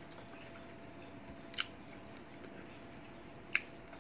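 A person chewing food with the mouth closed, faintly, with two short clicks: one about a second and a half in and one near the end.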